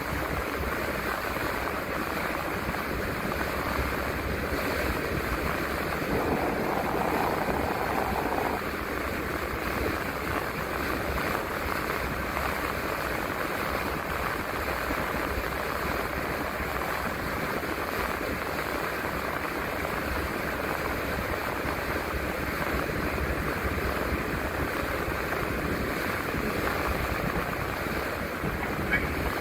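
Empty city transit bus on the move: steady engine rumble and road noise, a little louder for a couple of seconds about six seconds in.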